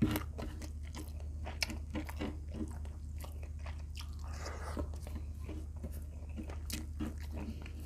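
Close-miked chewing: a person eating rice by hand, with many small sharp clicks from the mouth and a brief rustle about halfway through. A steady low hum runs underneath.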